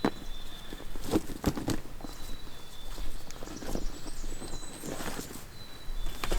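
Footsteps walking on a soft, mossy forest floor: a handful of uneven steps.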